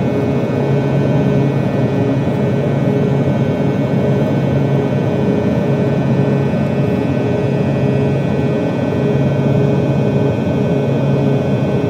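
Steady in-flight cabin noise of an Airbus A320 airliner: a constant rush of engine and airflow noise with a steady hum. It cuts in and out abruptly.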